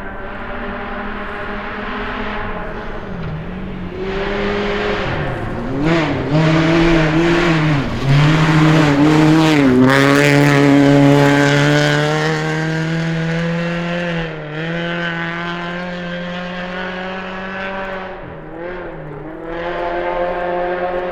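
A rally vehicle's engine under hard acceleration. Its pitch climbs and dips briefly several times, and it is loudest in the middle, then holds high before dropping off twice near the end.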